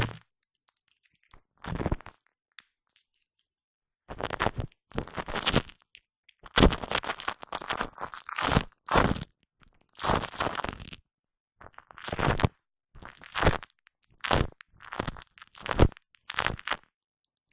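Shaving foam squished and worked close against a microphone, making sticky, soft foam sounds. It comes in about a dozen separate spells of half a second to a second each, with short silences between them.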